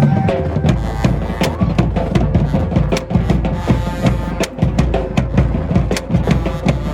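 Marching band playing, its drumline hitting bass and snare drums in a fast, dense rhythm under one long held note from the winds.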